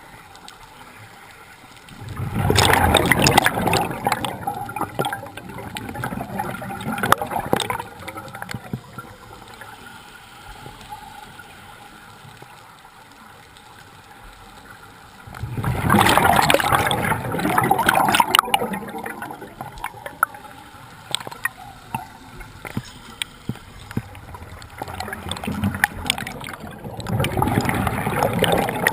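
Bubbles from a scuba diver's regulator exhaust, heard underwater: three long gurgling bursts of bubbles several seconds apart, one with each exhaled breath.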